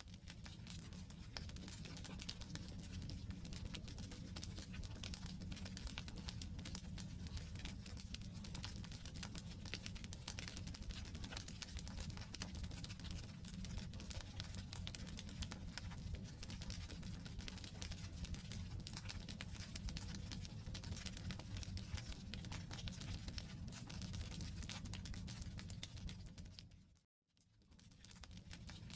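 Wood campfire burning: dense, continuous crackling and popping of the logs over a low rumble of the flames. The sound cuts out briefly near the end and then comes back.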